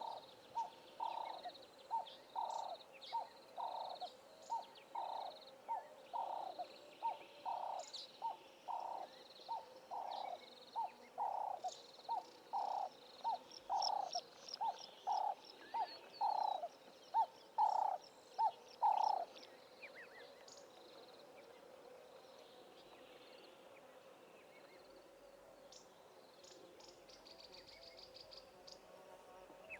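A bush bird repeats a low hooting note a little over once a second, growing louder, then stops abruptly about two-thirds of the way in. Smaller birds chirp and give short rapid trills higher up throughout.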